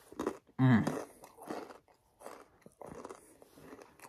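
Close-up crunching and chewing of Takis Nitro rolled corn tortilla chips, in a run of short crunches a few tenths of a second apart. A brief hum from the eater comes about two-thirds of a second in.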